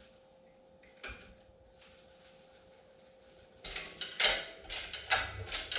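Faint steady hum with a single clunk about a second in, then a run of sharp metallic clanks and rattles of tools and metal parts being handled from about three and a half seconds in.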